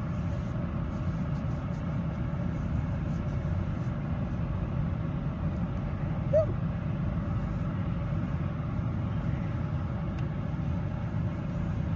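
Steady low rumble of a car engine idling, unchanging throughout.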